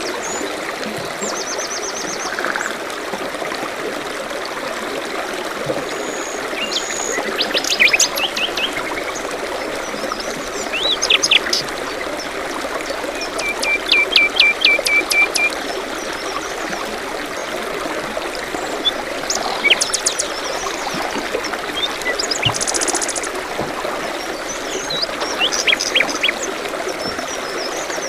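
A stream running steadily, with small songbirds calling over it: scattered chirps and quick trills, including a run of rapid repeated notes about halfway through and a short buzzy trill a little later.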